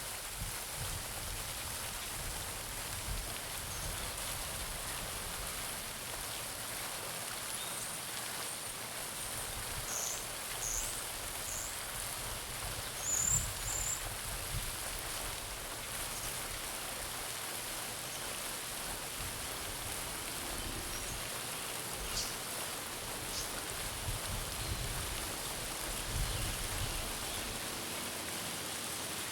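Garden pond fountain splashing steadily into the water, with a few short high bird chirps between about ten and fourteen seconds in.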